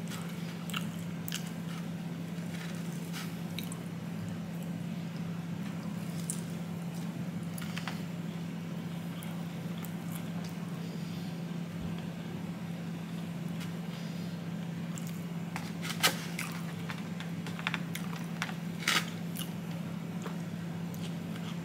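A person eating fried chicken fingers close to the microphone: soft chewing and wet mouth clicks, with two louder sharp clicks about sixteen and nineteen seconds in, over a steady low hum.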